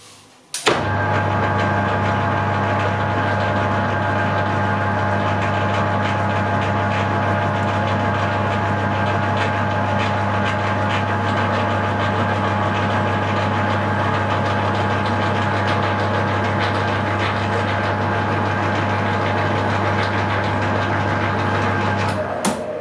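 Hare and Forbes AL335 metal lathe running at its slow speed, its electric motor giving a steady hum while it power-taps a thread with a tapered tap fed from the tailstock. It starts with a click about a second in and stops near the end.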